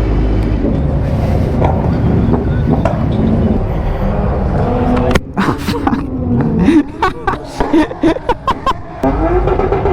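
Street traffic with vehicle engines revving up and down and passing, and a run of sharp clicks and short pitch sweeps from about halfway through.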